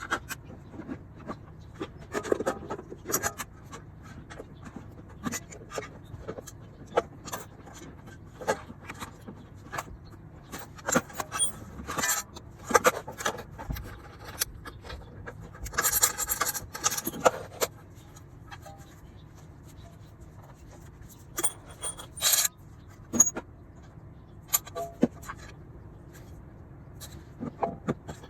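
Hand tools and metal parts being handled: scattered clicks, clinks and scrapes, with a longer stretch of scraping about two-thirds of the way through and sharp metallic clatters near the middle and later on.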